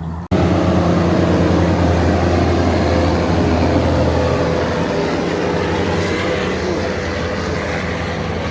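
Vehicle engine running steadily, a loud low hum with a hiss over it. It comes in suddenly after a brief dropout.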